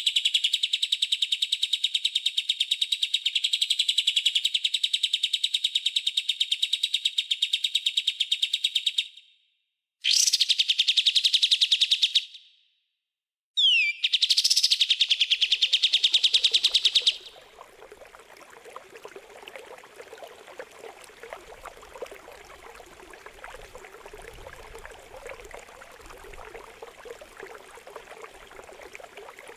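A songbird's sharp, rasping 'tembakan' calls, a very fast run of repeated notes, in three bursts: a long one, a short one, then another. About seventeen seconds in, the calls give way to a quieter, steady trickle of running water.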